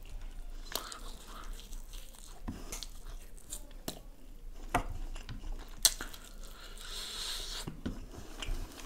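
Close-miked eating sounds of a man chewing and biting chicken pieces, with a scatter of sharp mouth clicks and smacks; the loudest comes about six seconds in.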